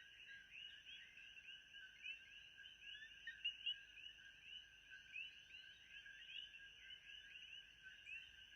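Faint, dense chorus of animal calls: many short chirps overlapping without pause, over a thin steady high hiss.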